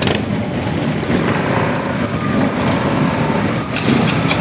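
Harley-Davidson motorcycle engines running at a steady pitch, heavy in the low end, with a few brief clicks.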